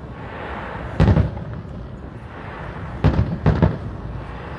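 Fireworks shells bursting overhead: three booms, one about a second in and two close together near three seconds, each followed by a low rumbling echo.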